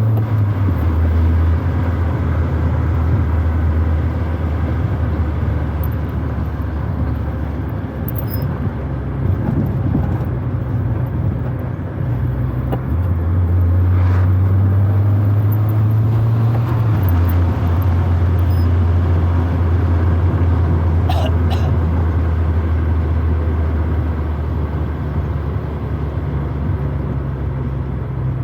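Proton Wira 1.5's four-cylinder engine heard from inside the cabin while driving, a steady low drone. Its pitch drops just after the start, steps up about halfway through and falls back a few seconds later, with a few faint clicks along the way.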